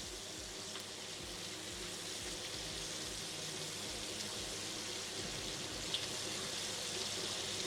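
Chicken pieces searing in a pan of very hot olive oil and butter: a steady sizzle, with one short click about six seconds in.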